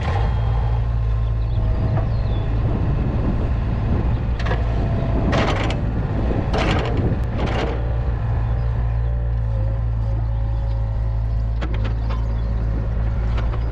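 Diesel engine of heavy equipment running steadily with a low drone. Several short bursts of rushing noise come between about four and eight seconds in.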